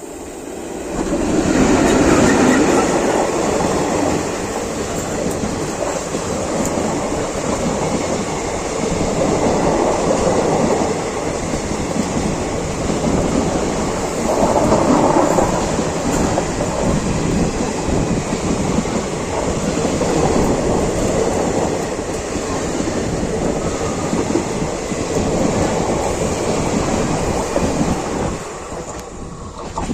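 A train passing close by: a loud rumble and clatter of wheels on the rails that swells about a second in, surges unevenly as the cars go by, and drops away near the end.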